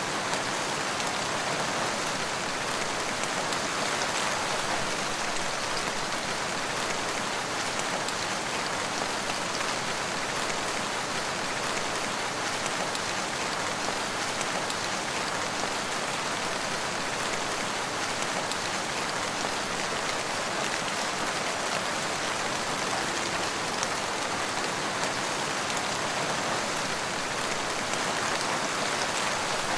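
Steady rain falling: an even, unbroken hiss of drops at a constant level.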